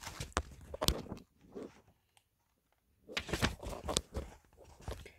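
Paper book pages being handled and turned, a run of rustles and small clicks with a silent gap of about a second midway.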